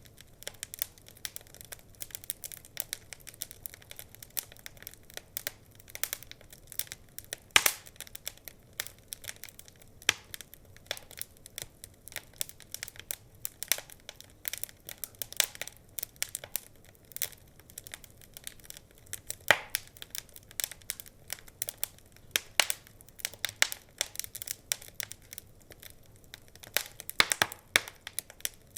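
Wood fire crackling, with irregular small pops and snaps and a few louder pops.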